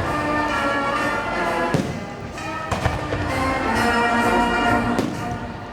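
Fireworks display set to orchestral music with brass, the music playing on while a few firework bangs go off, about two, three and five seconds in.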